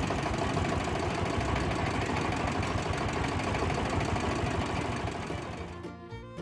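Small motor-driven mechanism running with a fast, even rattle, typical of a DIY model tractor's motor and gears under way. It fades out near the end as violin music comes in.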